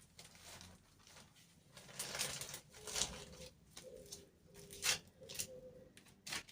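A dove cooing faintly in a series of short, level notes through the second half, with scattered rustles and clicks of handling.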